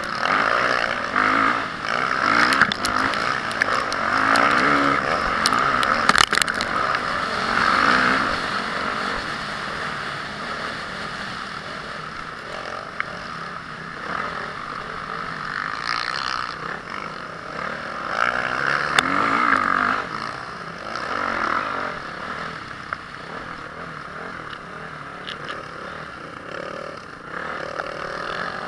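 Honda CRF450R single-cylinder four-stroke motocross engine revving up and backing off in repeated surges, loudest in the first several seconds and again about two-thirds of the way through.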